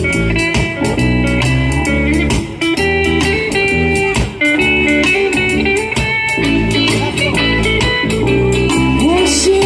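Live rock band playing a song's instrumental passage: electric guitar lines over bass and a steady drum beat with cymbal hits.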